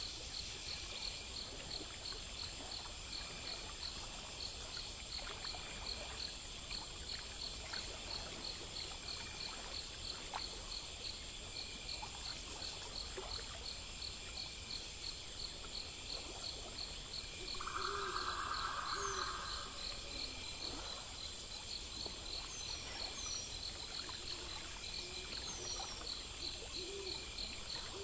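Night insect chorus: crickets chirping in a rapid, even rhythm over a steady high trill. A few short, falling bird chirps come in the second half, and a brief buzzing call sounds about eighteen seconds in.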